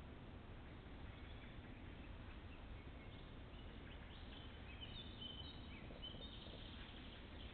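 Faint high bird chirps and short whistles, mostly in the second half, over the steady hiss of a trail camera's microphone.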